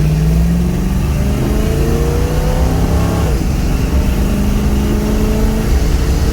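Custom 1963 Chevrolet Nova's engine accelerating under load. The revs climb, drop suddenly about three seconds in as the automatic transmission shifts up, then climb again.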